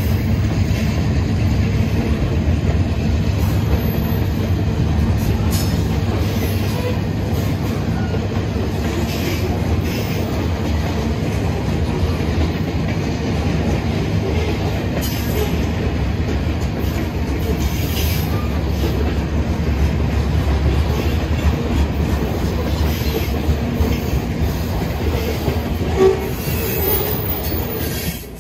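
Long freight train's cars rolling past on the rails: a steady low rumble with scattered clicks of wheels running over the track.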